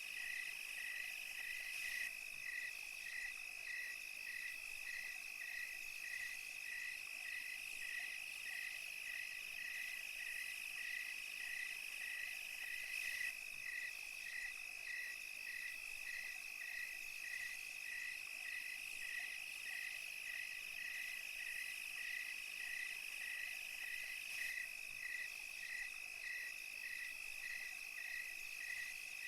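Night chorus of crickets and other insects: a steady high trill with a regular chirp repeating about twice a second, over a fainter high hiss.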